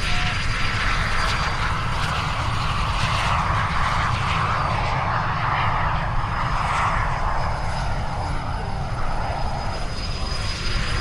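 Snowbirds CT-114 Tutor jets with their single turbojet engines flying by, a steady jet noise that swells through the middle and then eases off.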